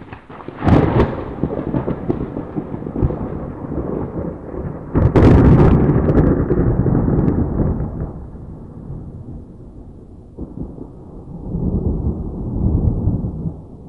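Thunder: a sharp crack under a second in and a louder one about five seconds in, each rolling on into a long low rumble, with another rumble swelling near the end.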